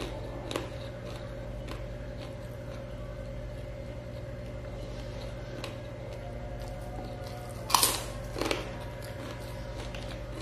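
A person chewing a mouthful of rice, with a few short, sparse mouth clicks, the loudest about eight seconds in, over a steady low hum.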